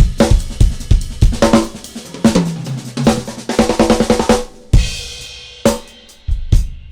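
Drum kit played in fast rhythmic phrases: quick runs of snare, tom and bass-drum strokes with cymbals ringing, and a low pitch that slides downward in the middle, answering recited konnakol rhythm syllables.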